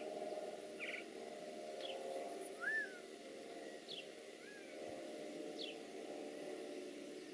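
Wild birds calling: a short high chirp repeated every second or so, and a louder rising-and-falling call a little before halfway.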